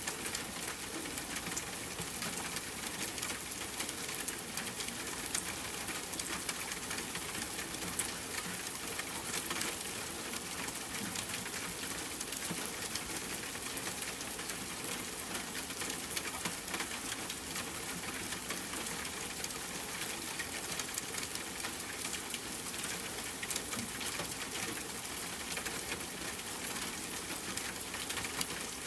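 Steady rain: an even hiss dense with small ticks of drops striking a surface, with one sharper drop about eight seconds in.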